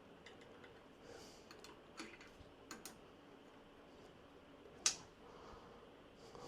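A few light, sharp clicks and taps of small metal parts being handled, scattered over faint hiss, the loudest about five seconds in.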